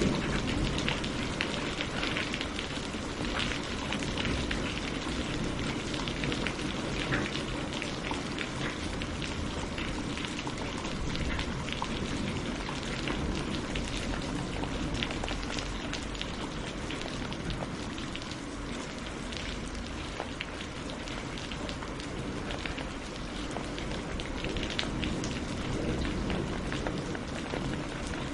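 Steady rain falling, with many separate drops heard striking a surface.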